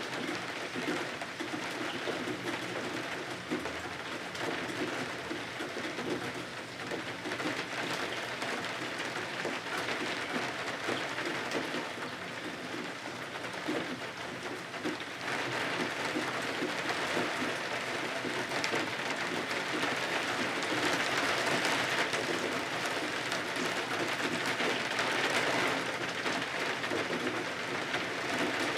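Steady rain falling on windows, a dense patter of small drops that swells a little louder about halfway through.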